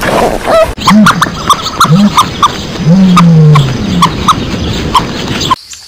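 Ostrich chicks peeping in a quick, irregular string of short high notes, with several short low calls rising and falling beneath them. It cuts off suddenly near the end.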